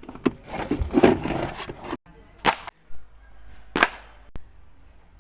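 Scrubbing and rubbing noise for about two seconds, then short, sharp brush strokes about every second and a half: a brush cleaning a car's interior.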